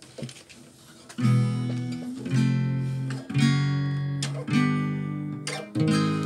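Acoustic guitar strummed, five chords about a second apart, each left to ring and fade, after a quiet first second with a few small clicks.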